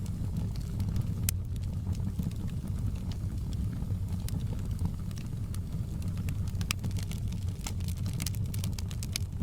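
Wood fire crackling in a fireplace: a steady low rumble of burning with scattered sharp pops and crackles from the wood, which come thicker in the last couple of seconds.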